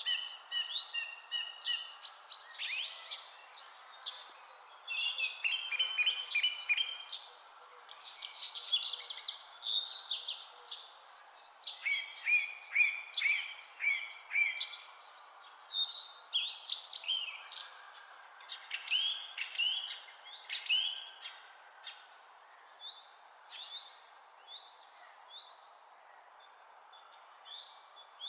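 Several songbirds singing and chirping in quick overlapping phrases over a steady background hiss, the chorus busiest in the first two-thirds and thinning to scattered chirps near the end.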